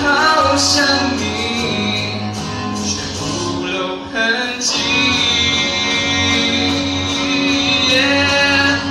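A pop ballad sung over a backing track, with long held notes.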